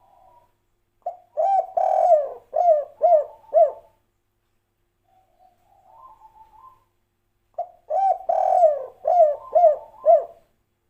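Spotted dove (tekukur) singing the 'kuk 3' song type: twice, a soft opening murmur followed by a loud run of five or six short coos.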